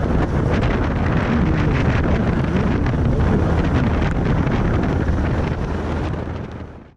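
Heavy wind buffeting on the microphone of a 1991 Suzuki GSX1100F being ridden at speed, with the engine's steady low drone underneath. The sound fades out near the end.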